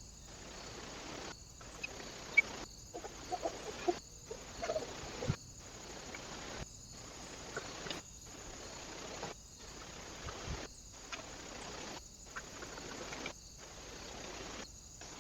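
Outdoor background hiss from a trail camera at a bird feeder, cut by brief dropouts about every 1.3 seconds. A few faint short calls and taps come in the first few seconds.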